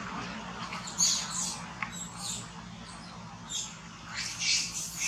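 Monkeys giving short, high-pitched squeaky calls several times, the troop calling out as if at a possible threat.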